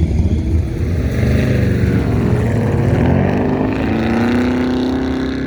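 A car engine accelerating hard, its pitch rising over about three seconds and then holding steady near the end.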